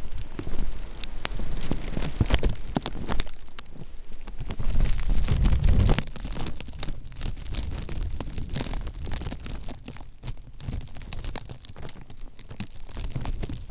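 Storm wind buffeting the microphone, a low rumble that swells about four to six seconds in, over a dense crackle of small ticks and clicks.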